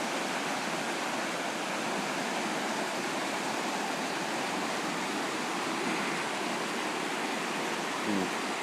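Belt Creek in flood, fast water rushing past in a steady, roaring noise.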